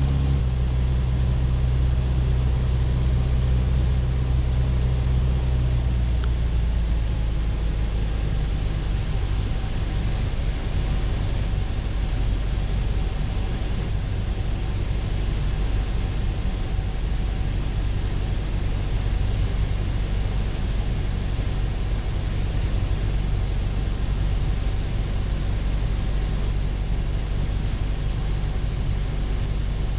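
Single-engine Piper Cherokee's engine and propeller droning steadily in the cabin. About six seconds in, the steady engine note changes to a rougher, less even drone, and a faint tone slides slowly down.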